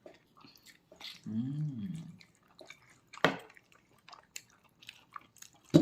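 Close-up wet chewing and lip-smacking of someone eating pork leg: scattered sticky clicks and smacks, with a sharper smack about three seconds in and another at the end. A short hummed 'mm' about a second in.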